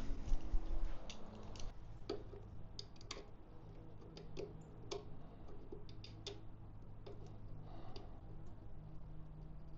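Scattered light clicks and taps of tools and small metal parts being handled during hand work on a motorcycle, over a faint steady low hum.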